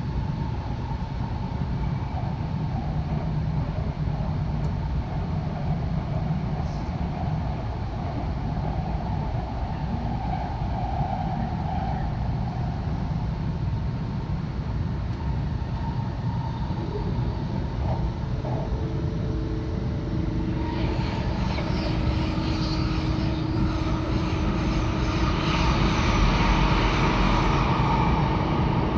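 E2-series Shinkansen train running, heard from inside a passenger car: a steady low rumble with a hiss. About 21 seconds in, the noise grows louder and hissier, and steady humming tones join it.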